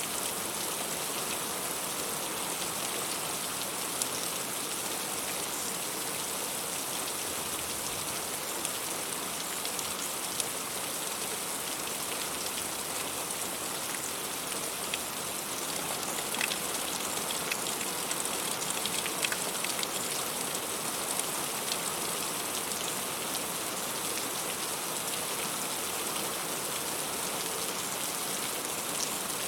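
Heavy rain falling steadily, a dense hiss with the sharper taps of separate drops scattered through it.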